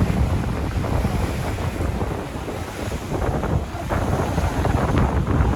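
Wind buffeting the microphone on a moving river tour boat, a steady low rumble with a rushing haze of air and water over it.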